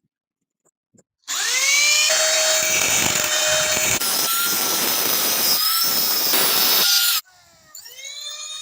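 An electric power tool's motor spins up about a second in and runs with a loud, hissing grinding noise for about six seconds, then cuts off suddenly. Near the end the motor spins up again.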